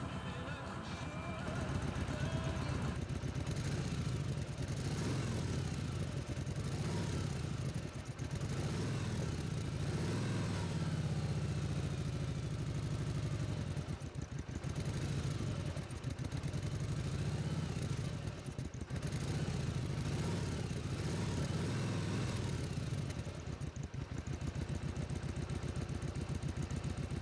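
Kawasaki VN1700 Voyager's large V-twin engine running with a deep, pulsing exhaust note that swells and eases several times.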